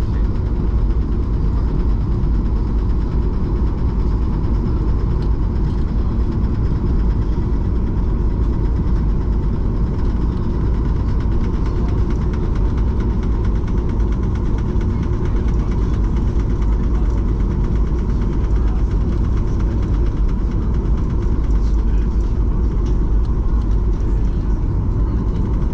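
Steady cabin rumble inside a Boeing 737-800 with its engines idling after landing, as the airliner taxis, with a faint steady whine over the low roar.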